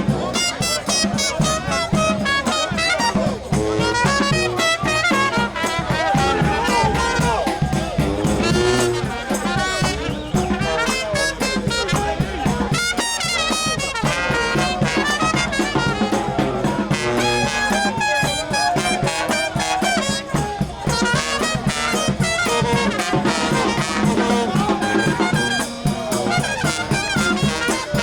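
New Orleans brass band playing a second-line groove: trumpets and trombones over steady low bass notes and a driving drumbeat.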